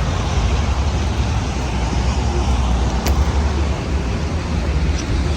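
Steady low rumble of road vehicles with a hiss over it, and one sharp click about three seconds in.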